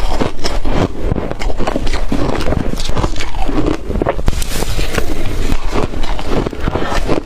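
Close-miked biting and crunching of blender-crushed ice in the mouth: a dense, continuous run of crackling crunches.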